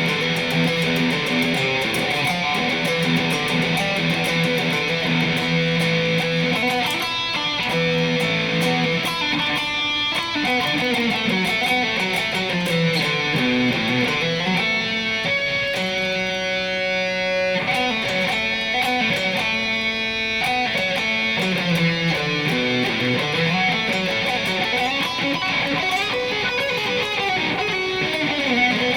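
Electric guitar on its bridge pickup, playing fast-picked practice riffs around a repeated low note, with one note held about halfway through.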